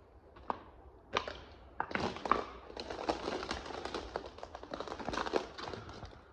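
Rustling and crinkling of loose material being disturbed, with many sharp clicks and small knocks. It starts about a second in and keeps up busily for several seconds, thinning out near the end.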